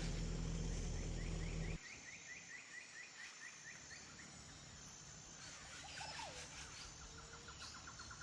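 A car engine hums steadily, then gives way abruptly about two seconds in to quiet forest where birds call in quick runs of repeated chirps, with one short gliding call near the end.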